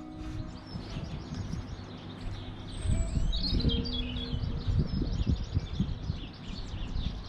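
Small garden songbirds chirping and twittering in quick short notes, busiest from about three seconds in. Under them run low thuds and rumbling, the loudest sound.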